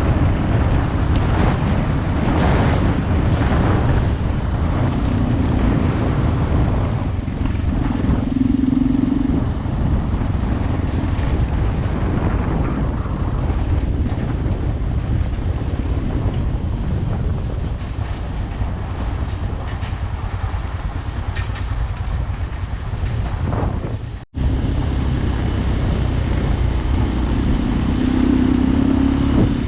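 Shineray XY250GY-6B dual-sport motorcycle's single-cylinder engine running under way, a steady low rumble whose pitch swells as it is revved. The sound drops out for a moment near the end and picks up again.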